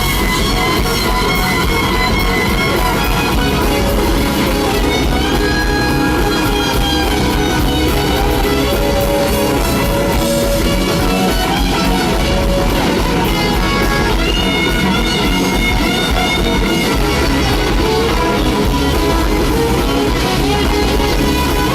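Live band playing an instrumental passage of a slow blues, with an electric guitar lead of long, sliding held notes over the drum kit and rhythm section.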